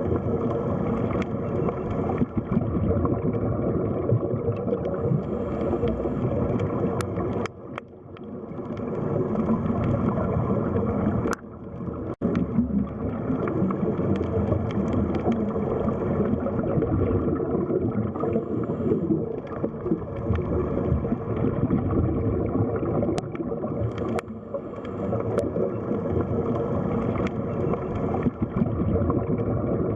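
Underwater sea ambience: a steady, muffled rush of water with a few faint clicks. It drops away briefly twice, about eight and twelve seconds in.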